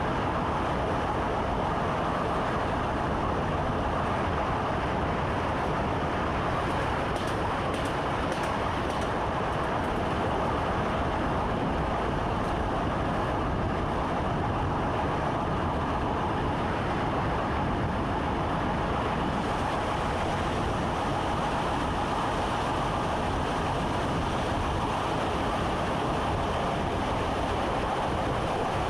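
A train running along the track, heard from inside the driver's cab: a steady rumble and rail noise, with a few faint clicks about seven to nine seconds in.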